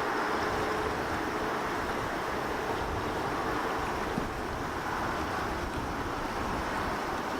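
Steady outdoor roar of wind, with wind buffeting the microphone in an uneven low rumble.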